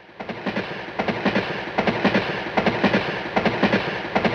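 A train running along the track, its wheels clacking over the rail joints in a steady clickety-clack rhythm of paired clacks about twice a second, fading in at the start.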